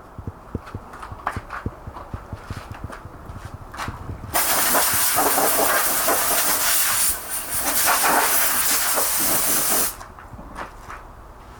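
A loud, steady hiss of air or spray under pressure, starting about four seconds in and cutting off suddenly after about five and a half seconds. Before it come light clicks and knocks of handling.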